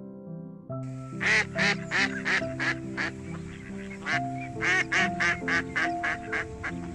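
Duck quacking in two quick runs of short, loud calls over background music with held notes.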